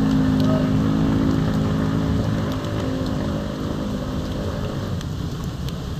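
Heavy rain pouring onto a flooded street, a dense steady hiss. Under it runs the hum of a vehicle engine, which fades out about halfway through.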